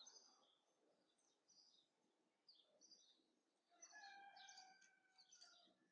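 Very faint songbird chirps, short high notes scattered through, with a longer whistled phrase about four seconds in.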